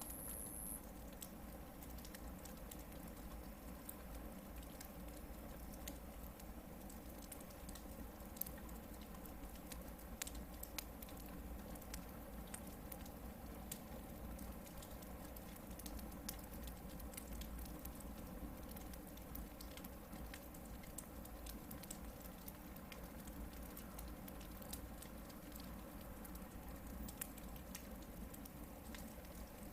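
Hardwood firewood burning in a campfire: a soft steady hiss with scattered crackles and pops, a few sharper pops around eight to eleven seconds in.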